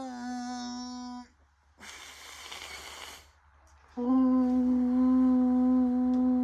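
A person humming long, steady held notes, with a breath between them.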